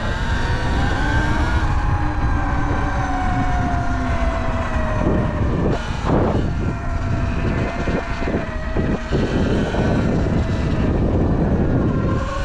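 Sur-Ron Light Bee X electric dirt bike riding, its motor whining over a heavy low rumble. The whine falls in pitch over the first few seconds as the bike slows, then holds fairly steady.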